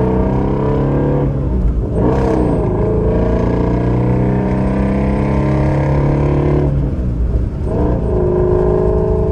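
Shelby GT350's 5.2-litre flat-plane-crank V8 running under acceleration while driving. Its note breaks off and picks up again at a new pitch twice, at about one and a half and about seven seconds in.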